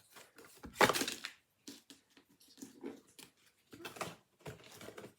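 Crinkling and rustling of blind-box packaging being handled to get at the card, with a loud crackle about a second in and softer rustles after.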